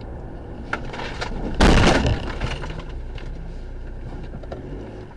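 A single loud crash about one and a half seconds in, lasting about half a second, over the steady rumble of a car on the road: a vehicle collision impact.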